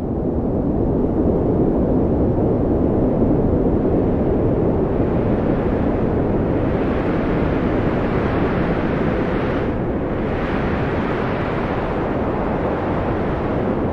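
Strong wind blowing, a steady low rushing noise. A gust builds from about five seconds in, adding more hiss, eases briefly near ten seconds, then picks up again.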